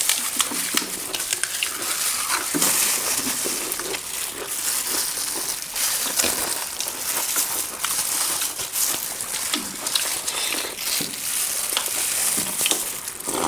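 Close-miked crunching and chewing of crisp, crushed panipuri shells: a dense run of small crackles and sharp crunchy clicks.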